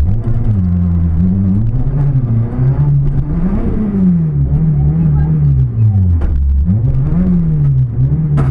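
Citroën C2 R2 rally car's four-cylinder engine heard from inside the cabin, its revs climbing and dropping every second or two as it is driven hard through gears and corners. A few sharp knocks come near the end.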